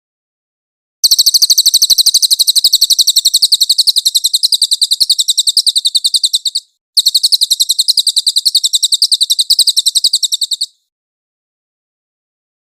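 Cililin bird singing: a fast, high-pitched trill of rapidly repeated notes starting about a second in, breaking off briefly, then resuming for a few more seconds before it stops.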